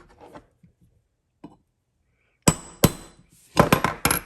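Hammer tapping a pin punch to drive a pin into an AR-15 lower receiver: two sharp metallic taps about two and a half seconds in, then a quick run of several more near the end.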